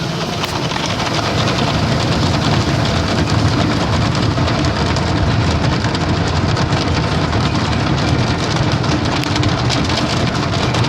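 Automatic car wash running: water spraying and pounding on the car along with a steady low rumble of the machinery, a dense, unbroken rushing noise.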